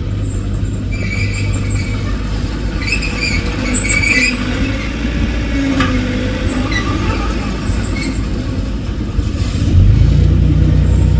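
Diesel engine of a heavy earthmoving machine running steadily, with short high-pitched squeaks between about one and four seconds in. Near the end the engine note steps up and grows louder as it comes under load.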